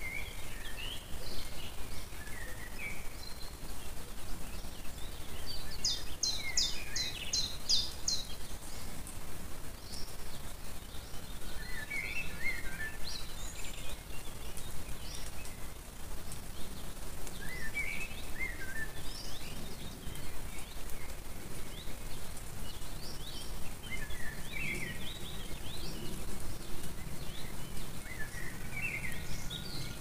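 Songbird singing short chirping phrases that recur about every six seconds, one of them a quick run of about seven sharp notes, over a steady low background hiss.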